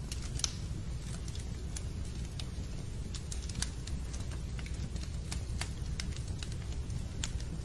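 Fireplace crackling: irregular sharp pops and snaps over a steady low rumble of burning wood.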